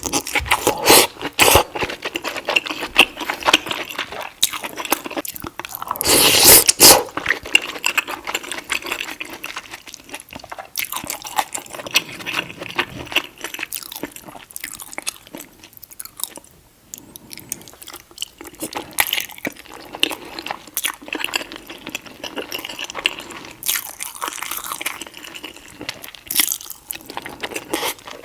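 Close-miked eating of deshelled seafood boil: biting and chewing with wet mouth smacks and crunchy bites, the loudest bite about six seconds in.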